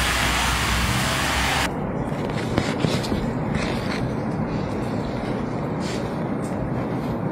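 Outdoor background noise: a loud, even hiss cuts off abruptly under two seconds in and gives way to a lower, steady rumble with a few scattered knocks.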